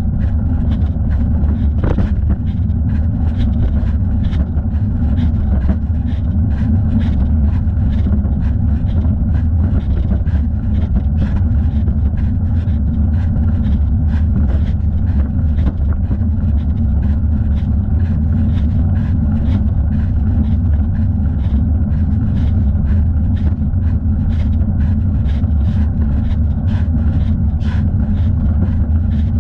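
Steady low rumble of wind and rolling noise from a moving bicycle, heard from a camera strapped to the rider's thigh, with light ticking about twice a second.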